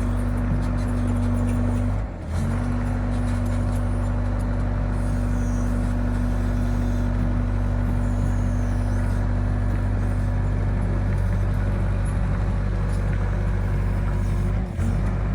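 Excavator's diesel engine running steadily with a low, even drone, briefly dropping out about two seconds in and again near the end.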